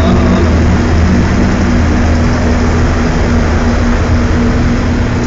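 Squid-fishing boat's engine running steadily: a loud, constant low hum under a wash of mechanical noise.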